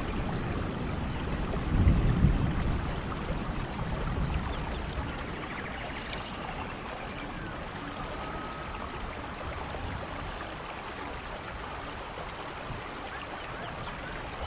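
Steady rain falling, an even hiss of drops, with a low rumble about two seconds in that dies away over the next few seconds.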